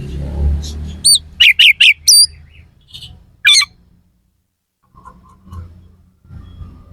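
Oriental magpie-robin (kacer) song: a quick run of loud, sharp, harsh notes about a second in, with one more sharp note a little later. A low rumble fades out at the start.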